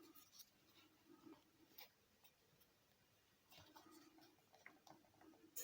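Near silence, with faint rustling and small ticks of origami paper being folded by hand.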